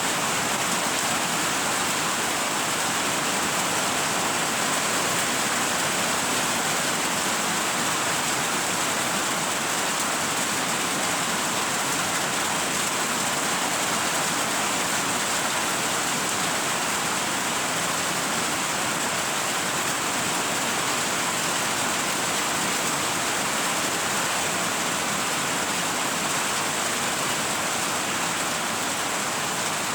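Rain falling steadily, a dense even hiss with no breaks or changes.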